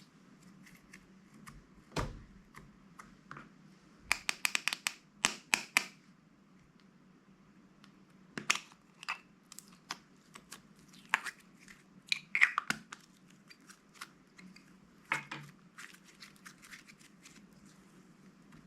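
Plastic slime bags and packaging handled close up: crinkling and tearing in sharp, irregular clicks and crackles. A dense run comes about four to six seconds in, with shorter clusters later.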